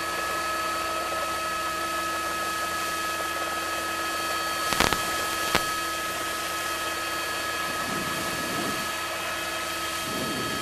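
Steady helicopter noise heard from inside the aircraft, an even hiss with a constant whine, and two short clicks about five seconds in.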